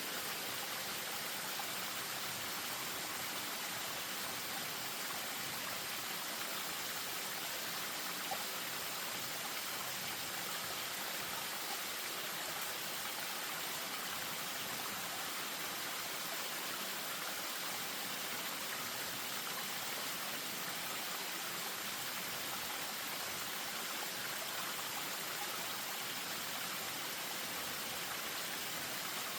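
Spring-fed stream running over a small waterfall: a steady, even rush of water.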